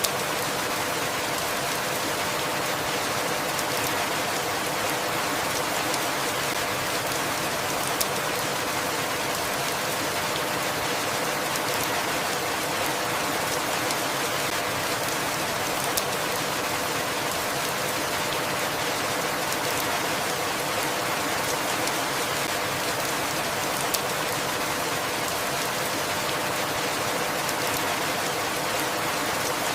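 Steady rainfall, an even hiss of drops with a sharp single drip tick about every eight seconds.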